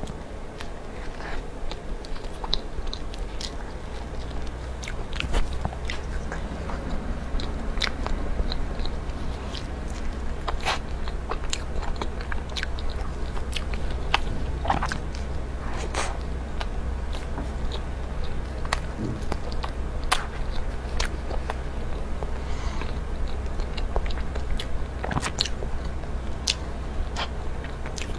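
A person biting and chewing a matcha cake layered with white and dark chocolate mousse: soft, wet mouth sounds with many scattered sharp clicks.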